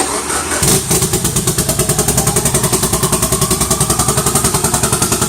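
Turbocharged Mitsubishi Lancer Evolution four-cylinder with a large Precision 6466 turbo. It cranks briefly on the starter, fires about half a second in on its first start after the build, and settles into a loud, choppy idle with an even rapid pulse: the lope of aggressive cams.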